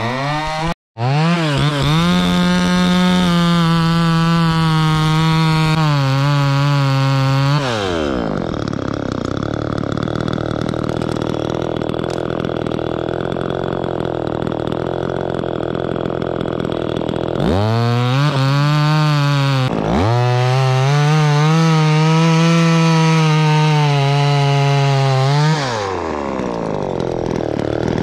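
Chainsaw cutting white pine, held at high revs for several seconds, then easing to a lower speed for about ten seconds. It comes back up with two quick dips in pitch and holds high again, then drops once more near the end.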